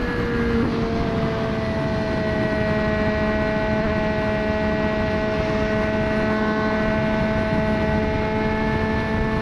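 2024 Triumph Street Triple 765 RS inline-triple engine through a Racefit Growler full exhaust, easing off slightly at the start and then running at steady revs. A dense rushing noise of wind and road sits beneath it.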